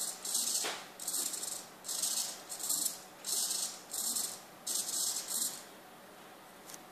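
Small hobby servos of a camera pan-tilt mount buzzing in short bursts, about two a second, as they swing back and forth; the bursts stop about five and a half seconds in.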